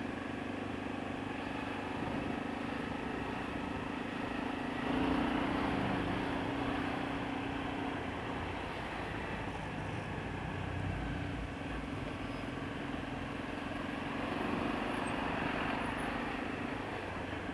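Honda XRE 300's single-cylinder four-stroke engine running while the bike rides at low speed through city traffic, with road and wind noise. The engine note swells briefly about five seconds in as the bike picks up speed.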